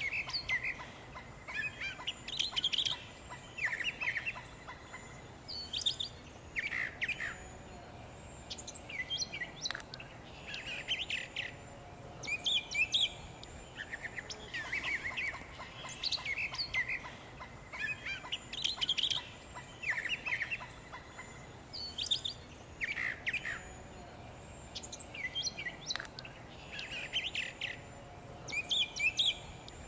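Birds chirping in short, quick phrases, repeating every second or two.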